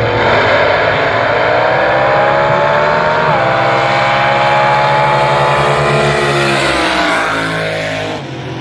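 Front-engine dragster's small-block V8 at full throttle down the drag strip, its pitch climbing, dipping suddenly about three seconds in, then climbing again. Near the end the pitch falls away and the sound cuts off abruptly.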